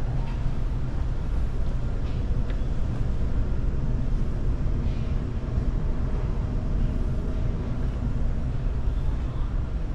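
Steady low rumble of a large car ferry's engines and hull, heard on board, with a few faint clicks.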